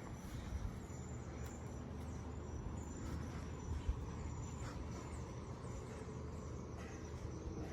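Faint background ambience: a steady low rumble with short, repeated high-pitched insect chirps.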